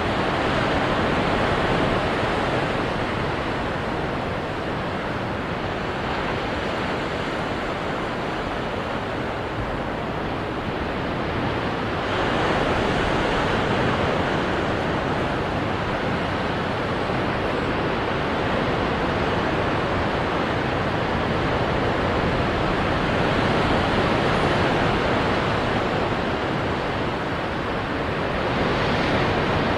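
Ocean waves crashing onto rocks: a continuous rushing wash of surf, swelling louder about twelve seconds in and again near the end.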